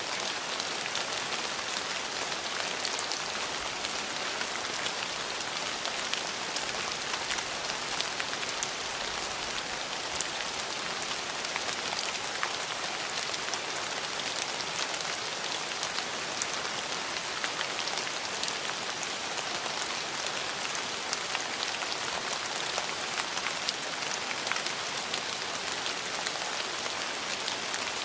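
Steady rain falling on hard surfaces, an even hiss with many small droplet ticks and no let-up.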